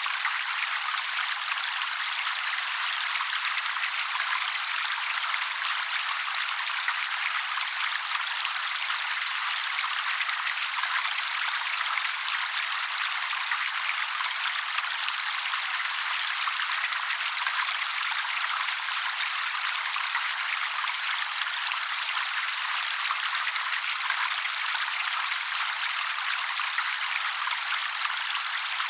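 Steady trickling water: an even, splashing hiss with no bass and no bird calls.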